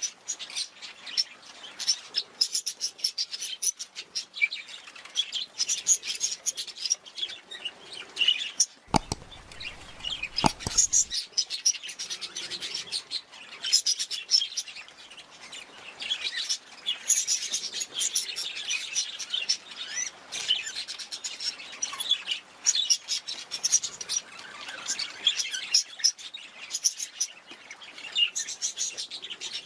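A flock of budgerigars chirping and chattering without a break, many short calls overlapping, with two sharp clicks about nine and ten and a half seconds in.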